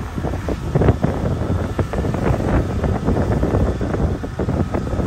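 Wind buffeting the microphone on a sailboat under way at sea: an uneven, gusty rushing with a heavy low rumble.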